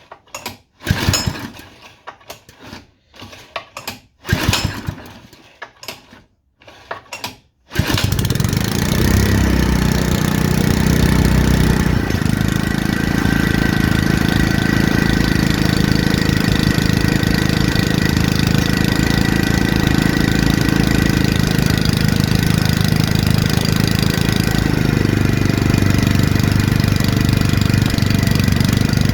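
Honda GX110 single-cylinder engine being pull-started after a long lay-up: a few separate pulls on the recoil starter, then it catches about eight seconds in and runs steadily.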